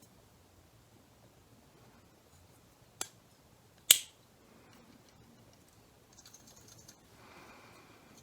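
Two sharp clicks of small parts of a dismantled car headlight switch being handled and fitted together, the second louder, followed by faint scraping near the end.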